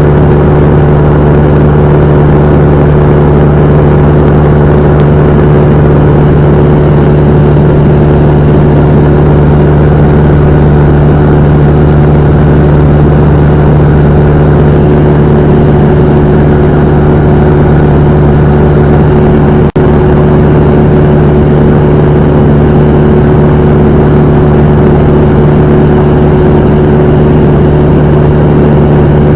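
Cessna 172M's four-cylinder Lycoming O-320 engine and propeller running in a loud, steady drone at constant power, with one very brief dropout about two-thirds of the way through.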